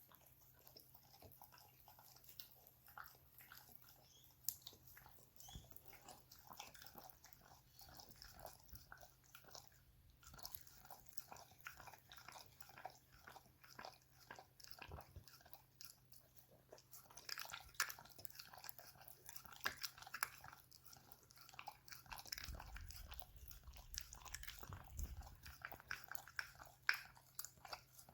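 Dog chewing on a toy: faint, irregular crunching and clicking bites, growing louder and more frequent in the latter part.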